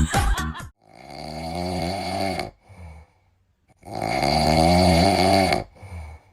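A pet snoring loudly in slow, even breaths, two long snores about three seconds apart, each followed by a short softer breath. Dance music cuts off just under a second in.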